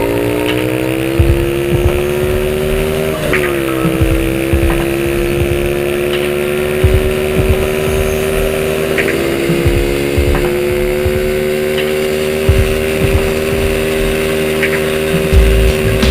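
Baotian 50cc monkey bike engine under way. Its revs drop sharply about three seconds in, as at a gear change, then climb slowly and hold steady, with low thumps from wind on the microphone.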